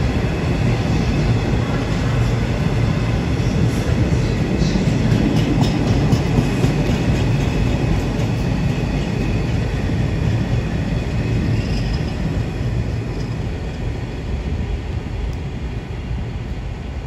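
A freight train hauled by a DB Cargo Class 66 diesel locomotive passing along the rails: a steady heavy rumble of engine and wheels, with a few faint clicks of wheels over rail joints about four seconds in. It slowly fades over the last few seconds as the train draws away.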